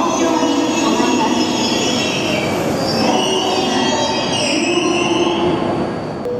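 Tohoku Shinkansen train moving along the platform: a steady, loud running noise with several high whining and squealing tones that slide in pitch.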